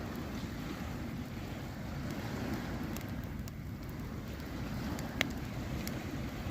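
Campfire crackling, with a few sharp pops, the loudest about five seconds in, over a steady low rumble.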